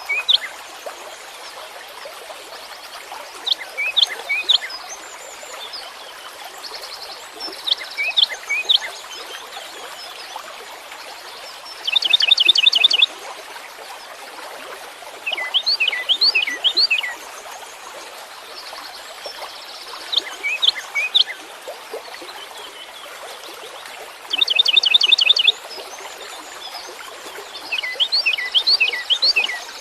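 A songbird singing short phrases of quick, high, down-slurred whistled notes about every four seconds, twice breaking into a fast, even trill lasting about a second. A steady hiss runs underneath.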